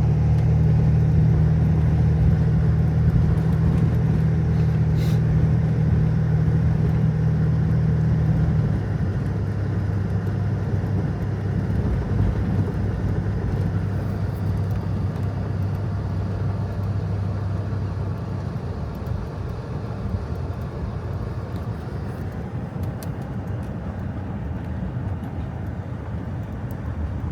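Vehicle engine and tyre drone on a snowy road, heard from inside the cab. The drone drops about a third of the way in and fades further as the vehicle slows.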